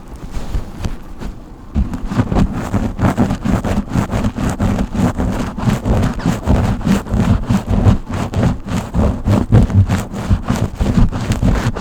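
Brush strokes rubbing close against a microphone, quick repeated strokes, several a second, with a heavy low rustle. They become dense and louder about two seconds in after a quieter start.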